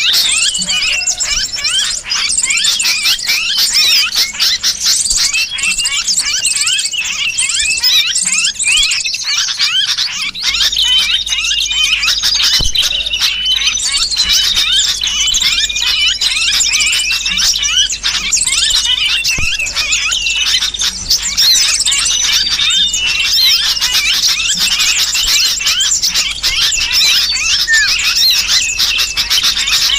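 Bird-trapping lure recording of small birds: a dense, unbroken chatter of rapid high chirps and squeaky distress cries, mixed with the noisy calls of sooty-headed bulbuls.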